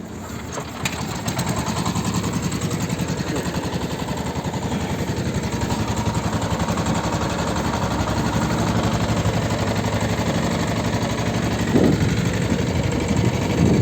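A small fishing boat's engine running steadily with a rapid, even chugging. It builds up over the first couple of seconds as the boat gets under way.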